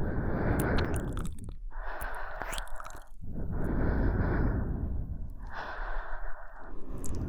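A woman breathing slowly and closely into the microphone for ASMR, alternating inhales and exhales, about five breath phases each lasting a second or so. Small mouth clicks are heard between the breaths.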